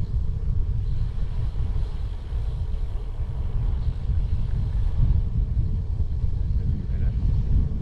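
Steady low rumble of wind buffeting the microphone while riding a bicycle, with road noise underneath.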